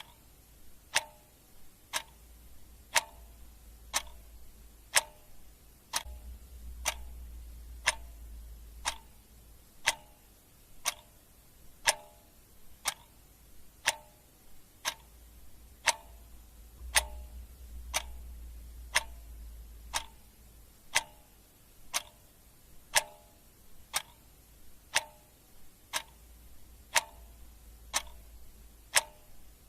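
Clock ticking steadily, one sharp tick each second, each with a brief ring.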